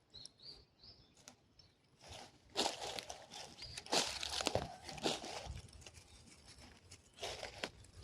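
Footsteps crunching irregularly on a dry, leafy trail, starting about two seconds in, with a few short high bird chirps in the first second.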